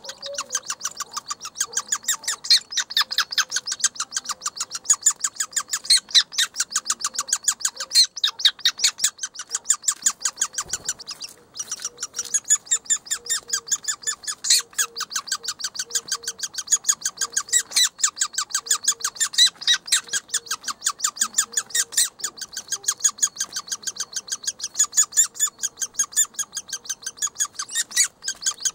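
Woodpecker nestlings begging from inside the nest hole: a nonstop rapid series of short, high chirping calls, several a second, with a brief pause about eleven seconds in.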